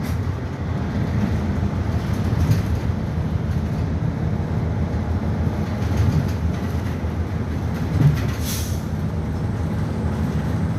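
Nagasaki Bus No. 2202 running along its route, a steady low engine and road drone heard from inside the cabin. A short hiss of air cuts in about eight seconds in.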